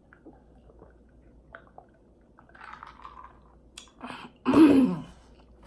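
Close-up mouth sounds of a person drinking from a glass and then chewing: soft sips, swallows and small wet clicks. About four seconds in comes one loud, breathy voiced sound that falls in pitch.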